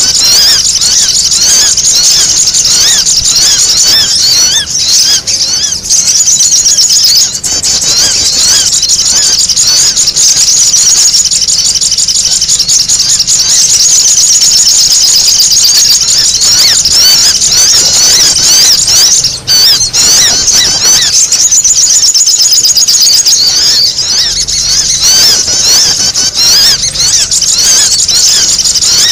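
Sogok ontong (spiderhunter) birds calling in a dense, noisy, unbroken chatter of rapid high-pitched chirps. It is a lure call, used to bring the birds in.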